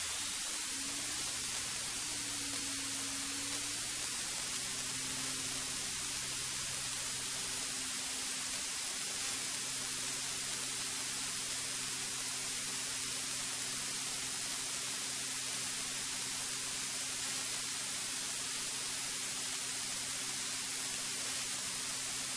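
Steady hiss of a cockpit headset intercom recording, with a light aircraft's piston engine faintly humming underneath at a steady pitch after a brief shift in pitch during the first few seconds.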